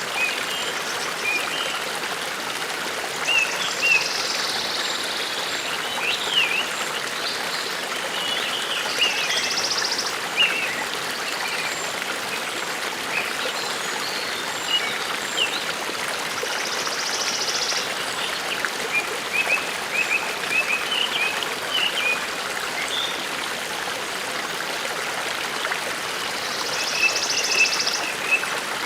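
A forest brook babbling steadily, with small birds chirping throughout and a few short, high, fast trills.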